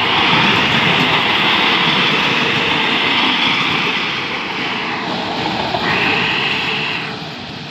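Diesel multiple-unit train passing close by, its wheels running over the rails with a loud steady clatter and hiss, dropping away near the end as the last car goes past.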